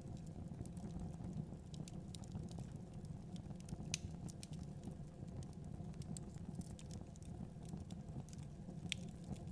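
Wood fire in a fireplace crackling, with irregular sharp pops and snaps scattered over a low steady rumble.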